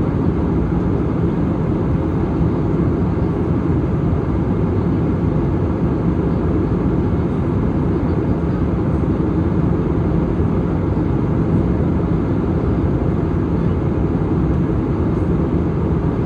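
Steady cabin noise of an airliner in flight: the even, low rumble of the jet engines and rushing air, unchanging throughout.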